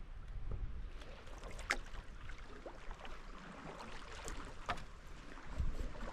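Paddleboard paddle working in river water: a few light splashes and drips, over a low rumble of wind on the microphone.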